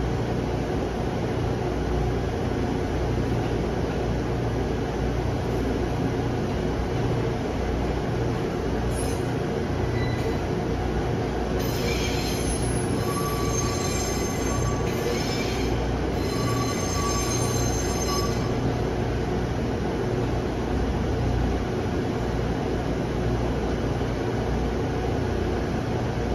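Steady low hum and rumble of a standing JNR-type 455/413 series electric train. About halfway through, a high-pitched squeal of several tones sounds in two stretches of a few seconds each.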